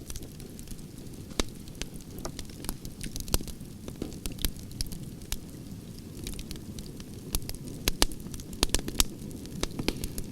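Wood campfire burning: a steady low rumble of the flames with irregular sharp crackles and pops from the logs, a quick run of louder pops near the end.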